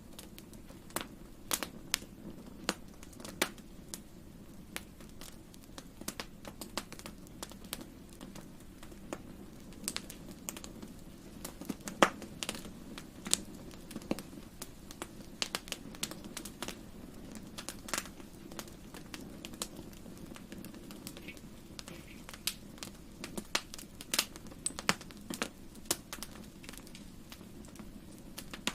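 Fire crackling in a fireplace: irregular sharp pops and snaps, one louder pop near the middle, over a steady low hiss of flames.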